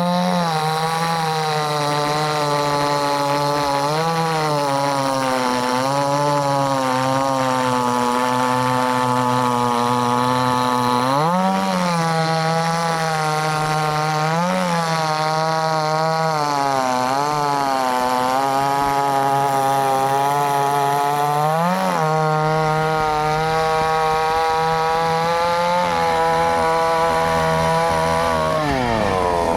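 Chainsaw running at high revs while cutting wood, its engine pitch sagging under load and briefly rising several times. The revs fall away near the end.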